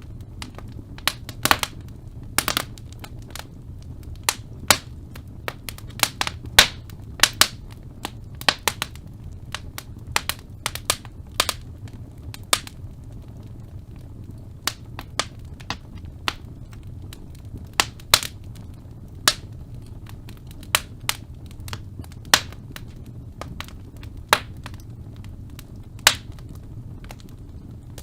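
Wood fire burning in a fireplace: logs crackling and popping in sharp, irregular snaps over a steady low rumble of the flames.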